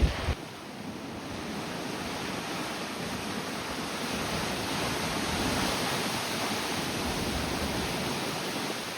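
Steady rushing noise of tropical-storm wind and surf. A burst of loud, low wind buffeting on the microphone cuts off about a third of a second in.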